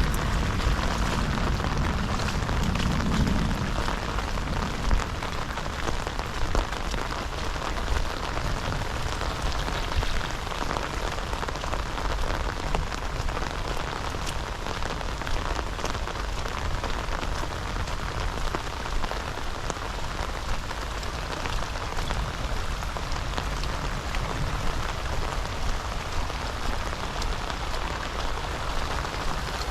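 Heavy rain falling, a steady hiss with scattered sharper drop hits. A low rumble in the first few seconds fades out.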